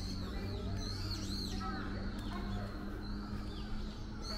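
Many small birds chirping, short high calls overlapping one another, over a low steady hum.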